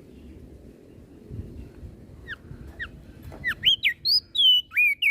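Crested white-eye (opior jambul) singing. After a quiet start, a few single down-slurred whistles come about two seconds in. They build into a fast, loud run of whistled notes sliding up and down near the end.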